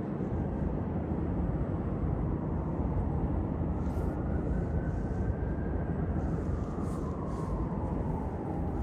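Steady low rumble of vehicle traffic, with a faint whine that rises in pitch from about halfway and another that falls toward the end.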